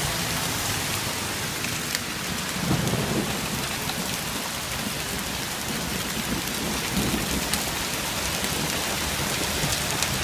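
Half-inch to three-quarter-inch hail pelting down with rain: a steady hiss dotted with many sharp ticks of stones striking. A low rumble of thunder swells about two and a half seconds in and again near seven seconds.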